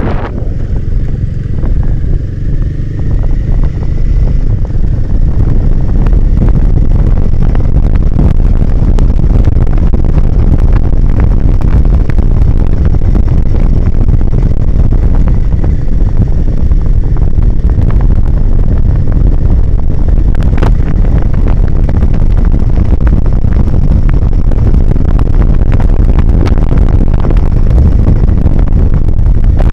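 Motorcycle riding along, its engine running under a steady low rumble of wind buffeting the microphone. The sound eases briefly in the first few seconds and then holds steady and loud.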